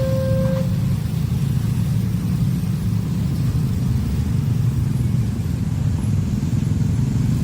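A train passing over a level crossing, giving a steady low rumble. The crossing's two-tone warning alarm alternates between two pitches and cuts off about half a second in.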